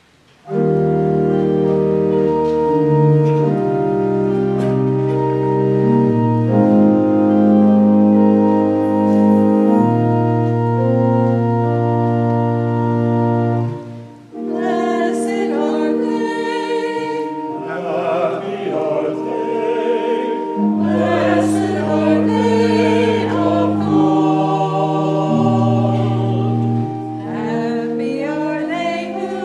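Organ playing slow, held chords with a deep bass; about halfway through there is a short break, then voices singing a hymn with vibrato over the organ accompaniment.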